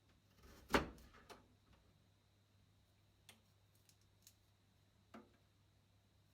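A few separate light clicks and taps of garlic-grating utensils being handled, the loudest a little under a second in and fainter ticks spaced a second or so apart after it, over a low steady hum.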